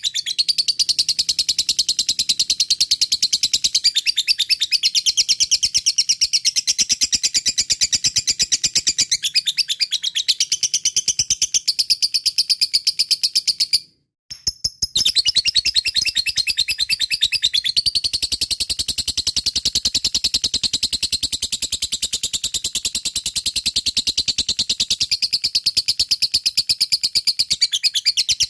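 Lovebird giving the long 'ngekek' call: a fast, even, high-pitched chattering trill held for many seconds. It breaks off once for about a second, about halfway through, then carries on.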